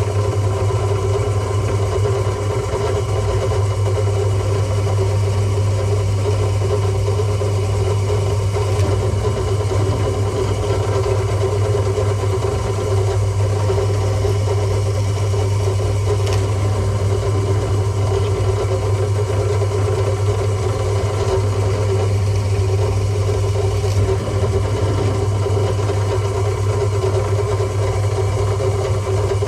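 Restored Nutool CH10 bench drill press running steadily with no load, its electric motor and belt drive giving an even hum.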